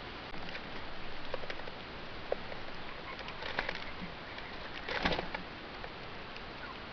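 Bird wings flapping in a few short bursts, the loudest about five seconds in, over a steady hiss.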